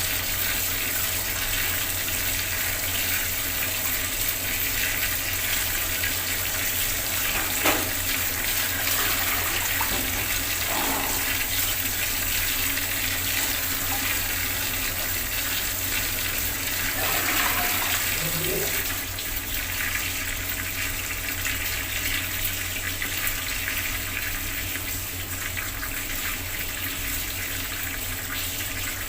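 Water from a bathroom tap running and splashing steadily. A sharp click about eight seconds in.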